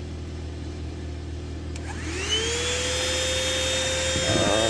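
Portable 12-volt car vacuum cleaner switched on with a click about two seconds in, its motor spinning up in a quick rising whine, then running steadily.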